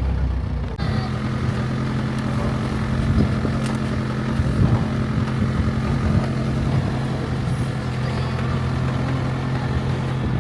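Vehicle engine running steadily under a rumbling drone, its note changing about a second in.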